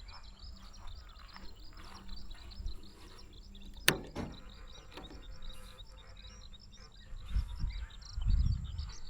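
Small birds chirping in quick, repeated short notes, with a single sharp click about four seconds in and low rumbling bumps near the end.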